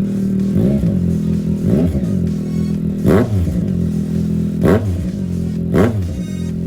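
Yamaha MT-09's three-cylinder engine idling through a Mivv full aftermarket exhaust, blipped five times. Each blip is a quick rise and fall in revs, and the last three are sharper and louder.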